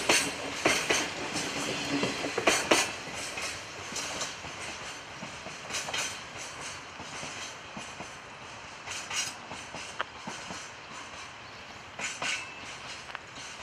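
Freight wagons' wheels clicking over rail joints with a steady rolling rumble, the clicks coming irregularly and the whole sound growing fainter.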